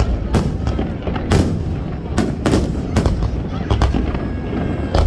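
Fireworks display: rockets launching and bursting overhead in an irregular string of sharp bangs and pops, several a second at times, over a steady low rumble.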